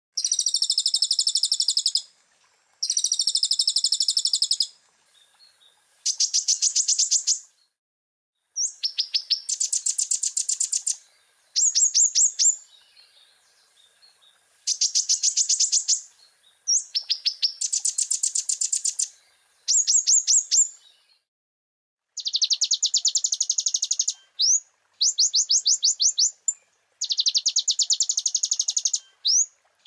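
Kolibri ninja (konin) sunbird singing: a string of high, rapid trilled phrases about two seconds each, separated by short pauses. The first two phrases are smoother and warbling. It is a full song packed with borrowed phrases of other birds.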